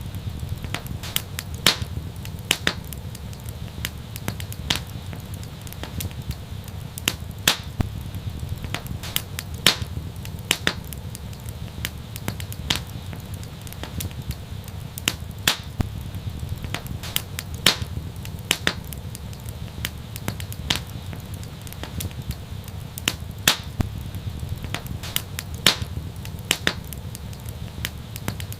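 Wood fire burning steadily with a low rumble and irregular sharp crackles and pops, several a second, some louder than the rest.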